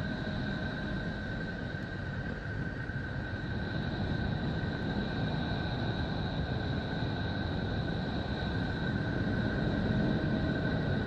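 Space recording converted to audio and presented as the sound of Neptune: a steady, noisy low drone with two thin steady tones whistling above it, slowly growing louder.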